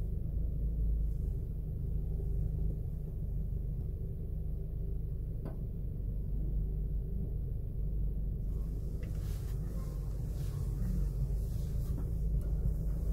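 Low, steady rumble of a Toyota Corolla's engine and road noise inside the cabin, with a faint hiss joining about two-thirds in and a single light tick about halfway.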